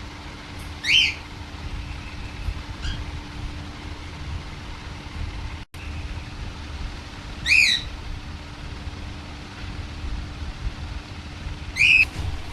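Young pet parrot giving three short, rising squawks several seconds apart, with a faint chirp or two between them, over a steady low hum.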